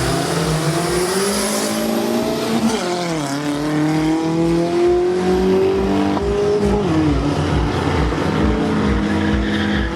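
Volkswagen Gol drag-racing car accelerating hard down the strip. Its engine pitch climbs, drops sharply at a gear change about three seconds in, climbs again, and drops at another shift near seven seconds.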